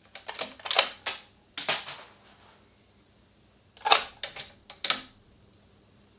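Rifle handling or firing at the shooting line: two quick clusters of sharp metallic clicks and knocks, several strokes each, a few seconds apart.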